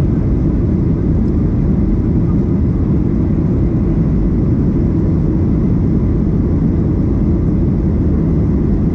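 Steady roar of a Ryanair Boeing 737's jet engines and airflow, heard from inside the passenger cabin.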